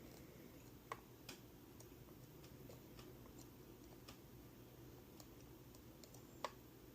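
Near silence over a steady low hum, broken by a few faint, sharp clicks and ticks. The clearest come about a second in and near the end, from small parts and tools being handled.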